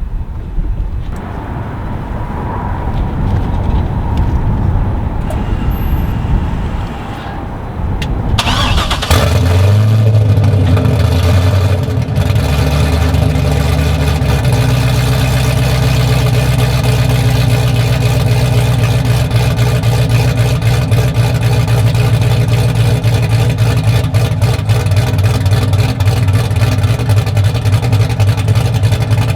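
2006 Corvette Z51's LS2 V8 starting up about a third of the way in: it cranks, catches with a brief flare of revs, then settles into a steady idle, after several seconds of quieter background noise.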